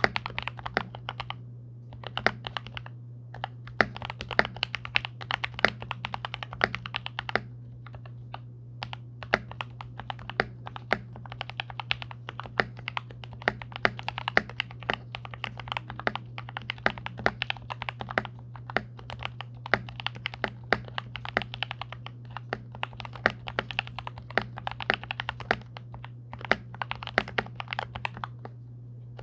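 Typing on a 66% hot-swap mechanical keyboard with lubed Durock Golden Cap v2 switches, plate-mounted stabilizers, neoprene case foam and a tape mod: runs of rapid keystrokes broken by brief pauses.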